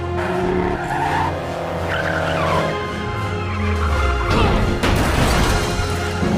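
Race cars running with tyres squealing, over orchestral film music, with two sharp hits about four and five seconds in.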